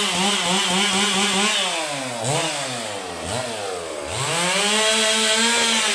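Chainsaw cutting up a fallen tree, its engine running at high revs and dropping back and rising again three times, at about two, three and four seconds in, before holding high again near the end.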